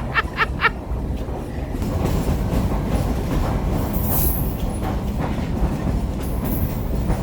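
Heritage excursion train rolling along the track: a steady rumble of wheels on rails, with a brief high hiss about four seconds in and again near the end.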